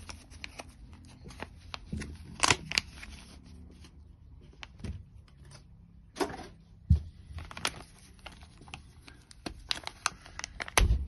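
Small RC car parts being handled and fitted by hand: scattered light clicks and knocks of plastic and metal pieces, with a little rustling.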